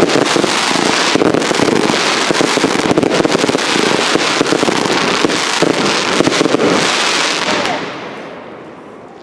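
Fireworks going off in a dense, continuous barrage of rapid crackling reports that dies away near the end.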